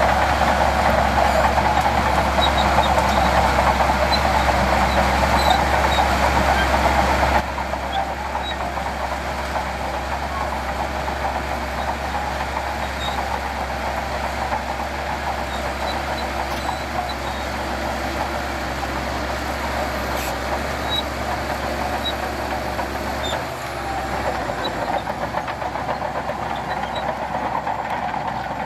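Heavy earthmoving machinery engine running steadily. The sound drops suddenly to a lower level about seven seconds in.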